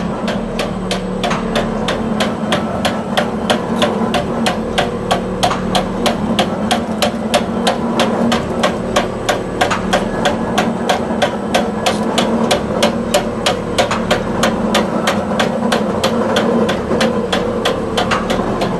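Glass mosaic machine running, striking in a steady rhythm of about four sharp knocks a second over a steady motor hum.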